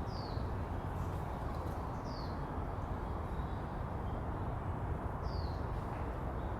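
Steady low background hum of city noise, with a bird giving a short, high, falling chirp three times, a couple of seconds apart.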